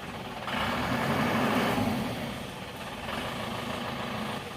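An engine running steadily at idle, with a hiss that swells about half a second in and eases off about two seconds in.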